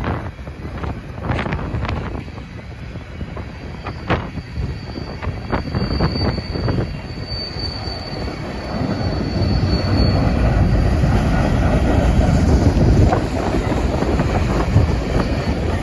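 Freight train of covered hopper cars rolling past: a steady rumble of steel wheels on rail with scattered clanks. A thin, high wheel squeal runs from about five to ten seconds in, and the rumble grows louder after that.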